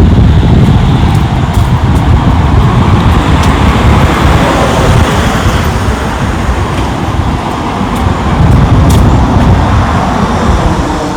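Road traffic noise: vehicles passing on a nearby road, with a dense low rumble and a swell of tyre noise about midway.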